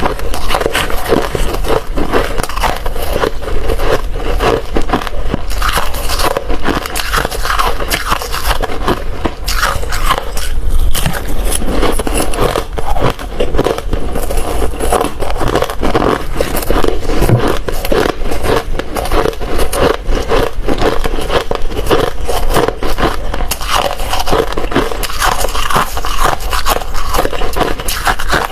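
Ice being chewed and crunched in the mouth, close to the microphone: a steady run of rapid, loud crunches and cracks.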